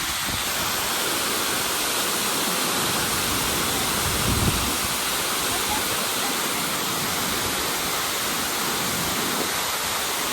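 Tortum Waterfall's water crashing down, a steady, powerful rushing noise without let-up.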